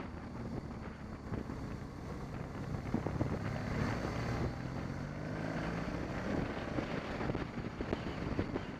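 BMW 650 GS motorcycle engine running under way, its pitch rising for a few seconds in the middle as it accelerates, with steady wind noise over the microphone.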